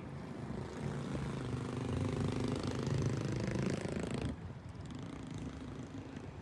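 A vehicle engine running at a fairly steady pitch, getting louder toward about three seconds in, then dropping off suddenly a little after four seconds to a fainter engine hum.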